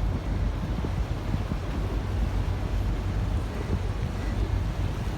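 Wind buffeting the microphone aboard a small pleasure boat under way: a steady low rumble with no break.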